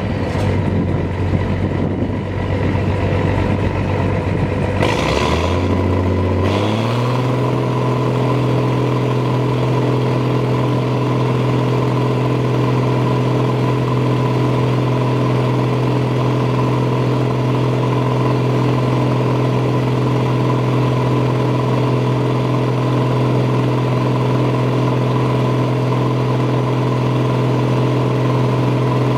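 Massey Ferguson 760 combine's six-cylinder Perkins turbo diesel engine running, revved up about six seconds in, then held steady at the higher speed.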